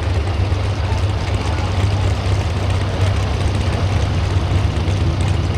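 Engine of a Pro Stock 4x4 pulling truck running loudly at a steady pitch, with a deep low hum under a broad roar.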